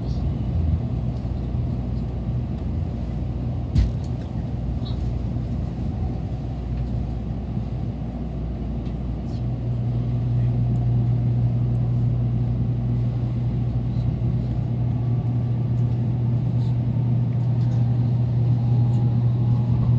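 Shinkansen train running noise: a steady low hum and rumble that grows louder from about halfway through, with a single sharp click about four seconds in.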